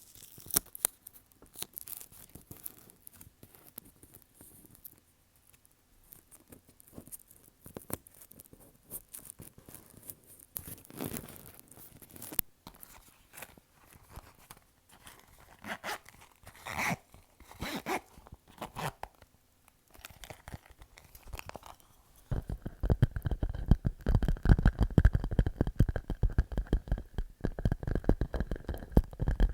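Fingers tapping and scratching on a clear plastic pouch, giving scattered crisp clicks and crinkly rustles. About three-quarters of the way through, this turns into a louder, dense run of rapid muffled thumps and rumbling.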